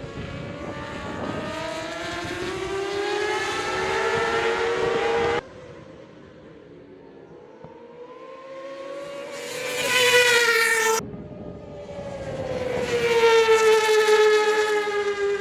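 Racing motorcycles at high revs passing by, their engine pitch rising and falling. The sound cuts off abruptly twice, about five and eleven seconds in. The loudest passes come about ten and fourteen seconds in.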